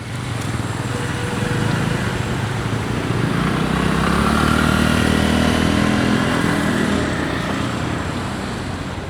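A motor vehicle's engine running as it passes, growing louder to about halfway and then fading.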